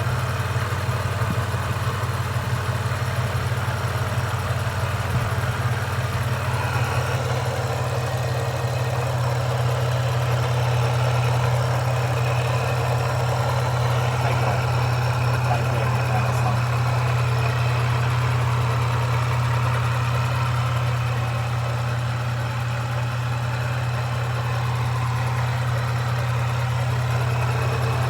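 Supercharged Toyota 3.4 L V6 (5VZ-FE) idling steadily after warming up, with the ticking sound that comes in a few minutes after a cold start and seems to come from the back of the engine. The owner suspects a supercharger rattle, the PCV valve or the lifters.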